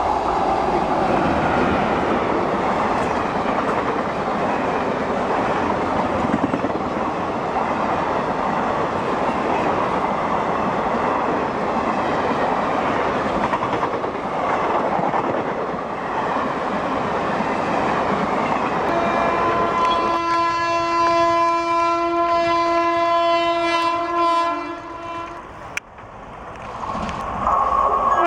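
Express train passing at high speed with a steady rush and clatter of wheels on rail. About twenty seconds in, the locomotive's horn sounds a long multi-note blast for about four seconds. It breaks off, and the horn sounds again near the end.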